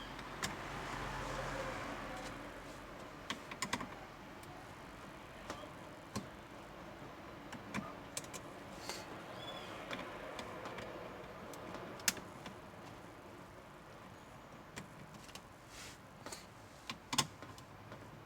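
Scattered clicks and light taps of hard plastic dashboard trim being handled, as the radio bezel of a Hyundai Tucson is worked loose from the panel. The clicks come irregularly, a few seconds apart, with a small cluster near the end.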